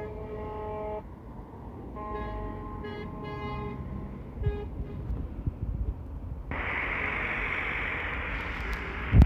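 Passing lorries sounding their horns in several toots over low engine rumble. About two-thirds of the way through a steady hiss takes over, and a single sharp knock comes near the end.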